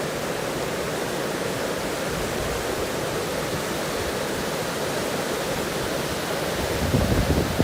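Steady rush of flowing water, an even noise with no pitch to it; a low rumble rises near the end.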